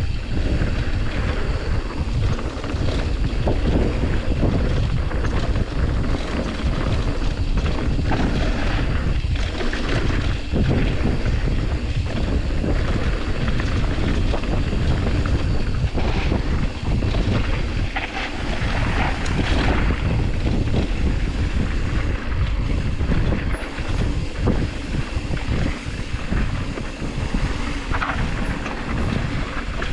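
Wind buffeting the microphone over the rolling noise of a mountain bike riding a dirt trail, with frequent small knocks and rattles from the bike over bumps.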